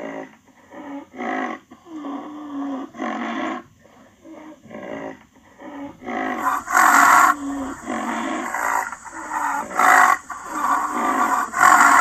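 Rhinoceros vocalising: a series of short grunts and breathy calls, quieter at first and louder from about halfway.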